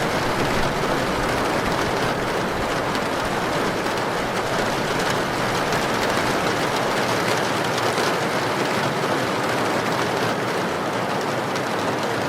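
Heavy rain with strong wind: a steady, dense rushing noise with a fine patter of drops on top.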